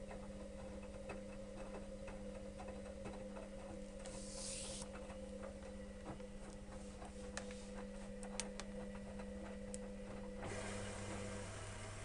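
Electrolux EWS 1045 front-loading washing machine running mid-wash: a steady motor hum with light clicks and knocks from the drum, and a short hiss about four seconds in. Near the end the running sound changes, with a lower hum and a steady hiss taking over.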